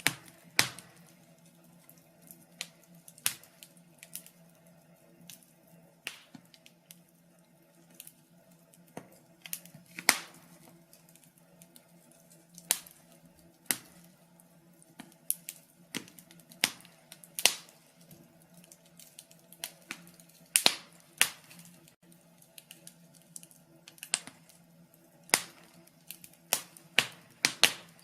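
Wood fire crackling: sharp, irregular pops and snaps, about one or two a second, over a faint steady low hum.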